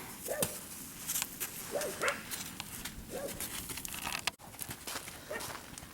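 A dog giving about four short whining yelps, a second or so apart, over scattered light clicks.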